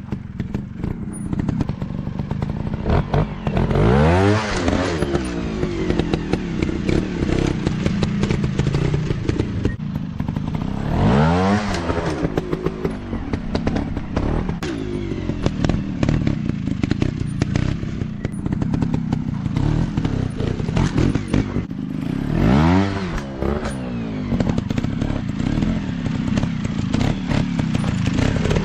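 Dirt bike engines running. Three times (about 4, 11 and 22 seconds in) an engine's pitch climbs and then falls away, over steady engine noise and scattered clattering clicks.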